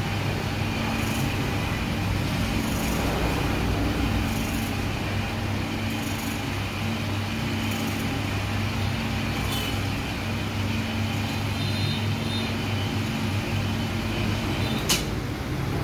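Upright straight-knife fabric cutting machine running with a steady motor hum, with short bursts of high hiss about every second and a half and a sharp click near the end.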